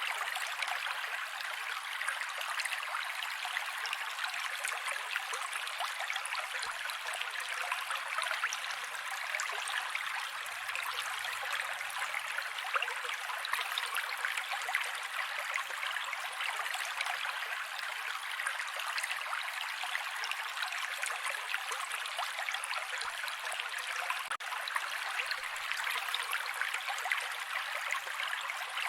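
Mountain creek water running over rocks: a steady rushing and splashing, light and high with no low rumble.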